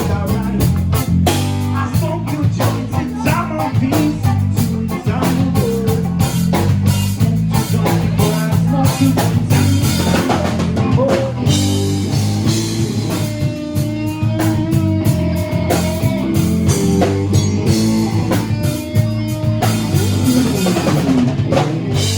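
Live rock band playing a reggae-rock song: drum kit, bass and electric guitar, loud and continuous, with the guitar holding long notes in the second half.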